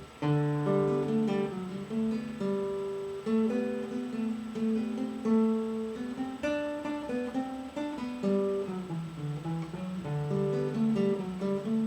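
Acoustic guitar playing an instrumental break: strummed and picked chords in a steady rhythm, no voice.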